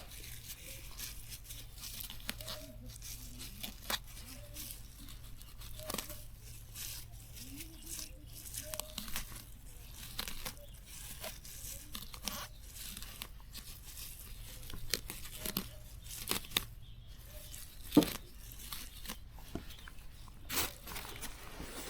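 Plant stems and leaves being torn and snapped by hand in an irregular series of crackles, with one sharper snap near the end.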